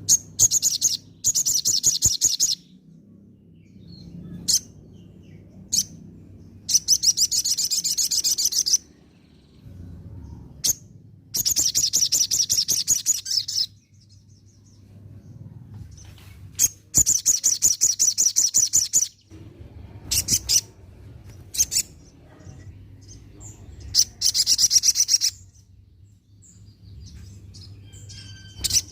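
Olive-backed sunbird (sogon) singing: rapid, high trilling phrases one to two seconds long, about five of them, with single sharp chirps in the pauses between.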